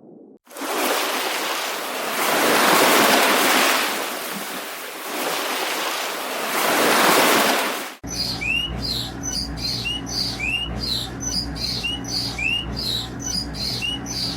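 A rushing noise, as of surf, that swells and fades twice, then an abrupt change to a bird chirping over and over, short rising calls about twice a second, over a steady low hum.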